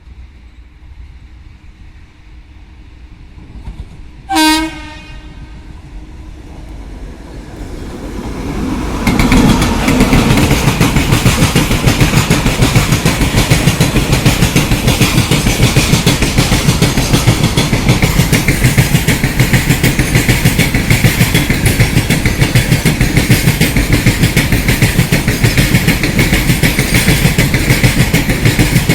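WAG-9 electric locomotive sounding one short horn blast as it approaches, then a freight train of BOXNHL wagons rolling past at speed. The wheels give a loud, fast, rhythmic clickety-clack on the rails that builds up and then holds steady.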